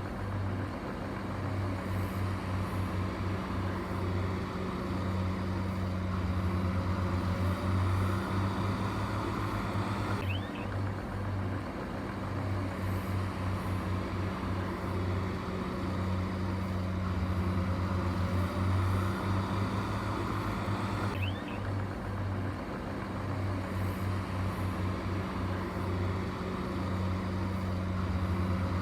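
A heavy diesel engine running steadily with a low hum. The same stretch of sound repeats about every eleven seconds.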